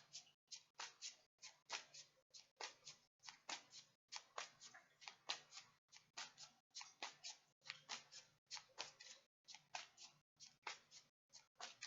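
Tarot deck being shuffled by hand: faint, crisp card slaps coming in quick little clusters, a couple of clusters a second.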